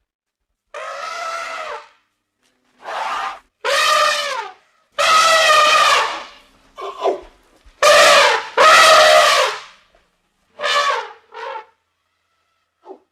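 Elephant trumpeting: a series of about eight brassy calls, each lasting up to a second or so, separated by short gaps.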